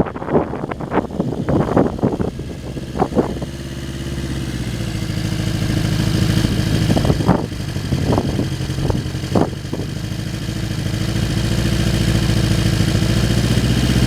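Honda CB750 air-cooled inline-four engine running at a steady pitch, slowly getting louder. Gusts of wind buffet the microphone for the first few seconds and briefly again in the middle.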